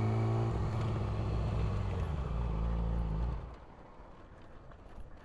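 Yamaha R6 inline-four motorcycle engine running steadily at low speed, then cutting out suddenly about three and a half seconds in.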